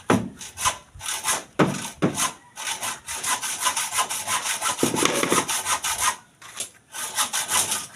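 A hand saw cutting with quick back-and-forth rasping strokes, pausing briefly a couple of times.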